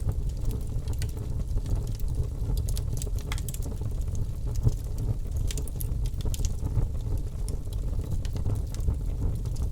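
Birch logs burning in a fireplace: a steady low rumble of flame with frequent small crackles and pops scattered throughout.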